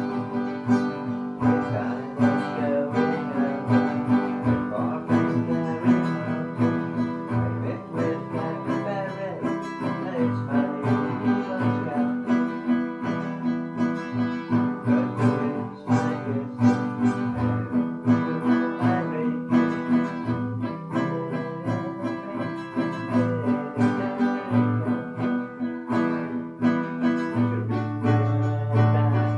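Acoustic guitar being played continuously, a steady stream of plucked and strummed notes.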